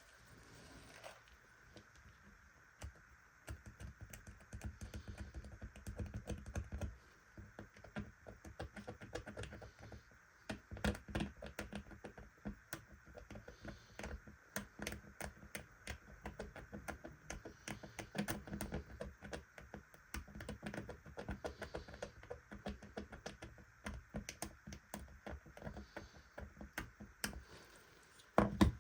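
Quick, irregular clicking and tapping of small hard parts being handled and worked by hand, with two louder knocks near the end.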